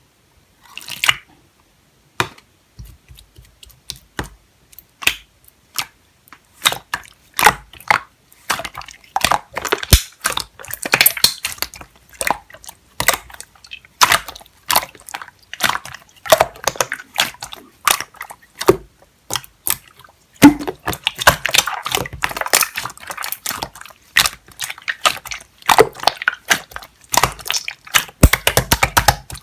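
Jelly-textured marbled slime being squished, poked and stretched by hand, giving irregular wet sticky clicks and small pops of trapped air. It starts sparse and grows busier, most densely in the second half.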